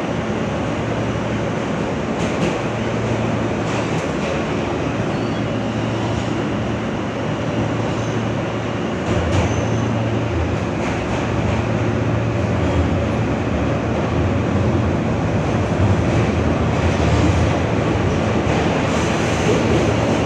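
R160 subway car running along the track, heard from inside the car: a steady rumble with a low motor hum and a few faint clicks from the wheels, getting a little louder about halfway through.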